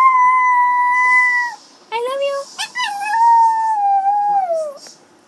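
Dog howling in long drawn-out notes: a held steady howl of about a second and a half, a short rising yelp, then a longer howl that slowly falls in pitch and trails off. It is the dog's eager 'crying' at the prospect of going out.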